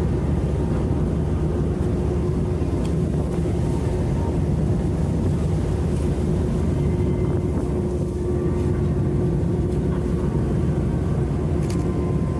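Steady low rumble of the sightseeing icebreaker Aurora under way through drift ice, its engines droning with a faint steady hum over them.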